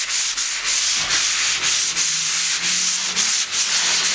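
Hand sanding of a dried plaster patch with a sanding block and medium-grit paper: a steady scratchy hiss of back-and-forth strokes, about two or three a second.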